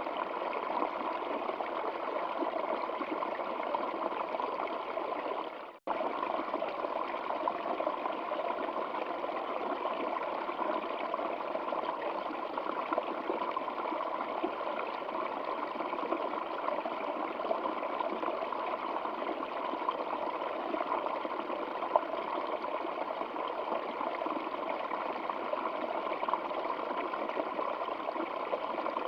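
Stream water flowing and trickling steadily. The sound dips out for a moment about six seconds in and then cuts straight back in, like a loop join.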